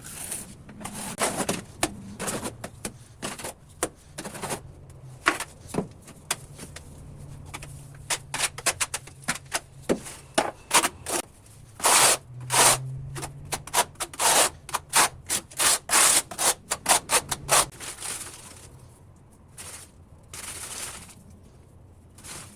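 Hand tools working on masonry or tile: an irregular series of sharp knocks and scraping strokes, coming fast and loudest in the middle, then a few slower scrapes near the end.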